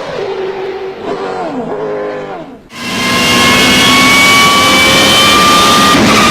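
BMW M3 GTR's 4-litre V8 race engine revving, its pitch rising and falling and dropping away several times as it shifts. About two and a half seconds in it gives way abruptly to a much louder full-throttle run, with a high-pitched whine from the straight-cut Hewland sequential gearbox climbing slowly.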